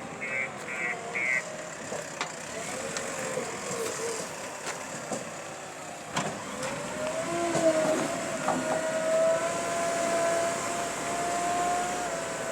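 JCB 3DX backhoe loader at work: its reversing alarm beeps rapidly and stops about a second and a half in, while the machine's diesel engine runs. A few knocks come through, and about seven seconds in the engine's whine rises and then holds steady.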